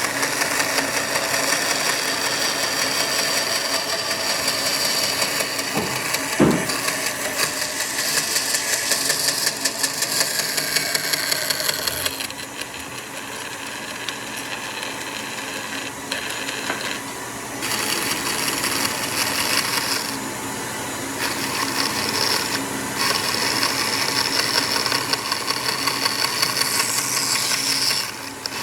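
Electric power tool running on wood in stretches, with its pitch and loudness changing several times as it is worked or paused. A single sharp knock about six seconds in.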